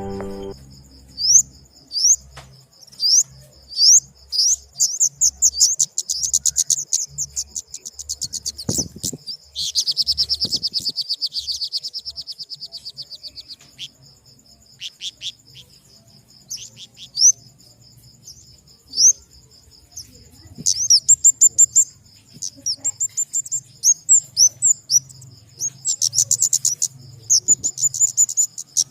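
Flowerpecker (kemade) calling: quick series of high, sharp chirps and fast ticking trills, with a buzzy stretch about ten seconds in. A faint steady high-pitched tone runs underneath.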